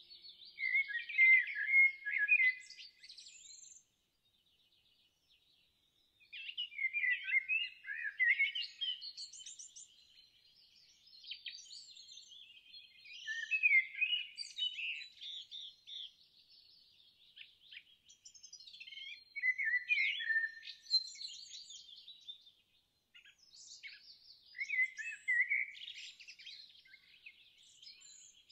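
Songbirds singing: bursts of rapid warbling chirps and whistles, a few seconds each, separated by short pauses, with a higher thin trill running under some of the phrases.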